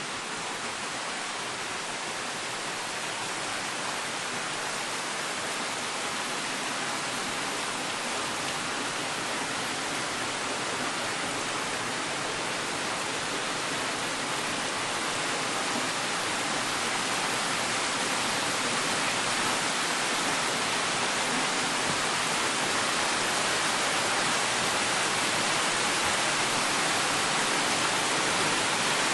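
Heavy rain pouring down steadily, slowly growing louder.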